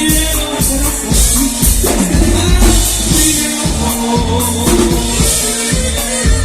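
Norteño band music: a drum kit keeping a steady beat under a strong bass line and sustained melody lines.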